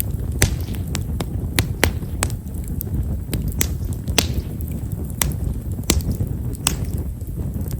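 Himeshara (Stewartia monadelpha) firewood burning in a bonfire, giving small, sharp crackles at irregular intervals, about two a second, over the low rumble of the flames.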